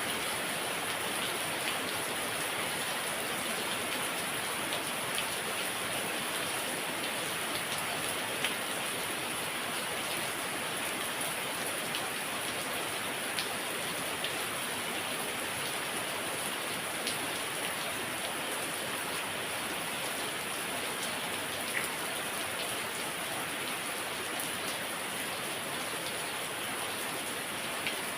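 Heavy rain falling steadily, a dense even hiss with the occasional sharper tap of single drops.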